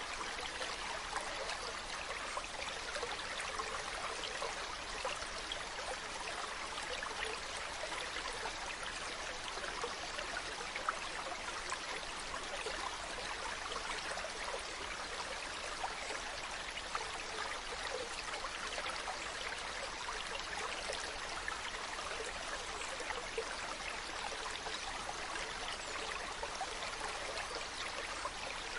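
Mountain stream running over rocks: a steady splashing and babbling flow.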